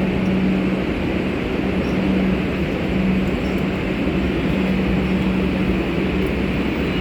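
Steady, loud rumble and hiss of ambient noise at an elevated metro station, with a low hum that fades in and out every second or two.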